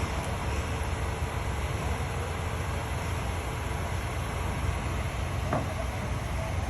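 Heavy equipment's diesel engine running steadily, a low rumble with a faint steady hum above it.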